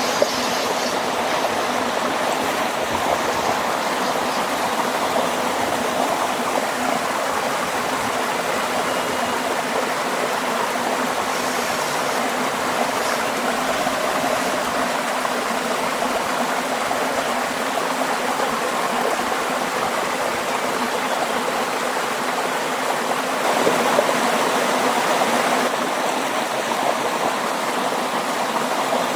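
Jet-pump pressure washer spraying water on a window air conditioner during servicing: a steady rushing hiss of water, briefly louder about three-quarters of the way through.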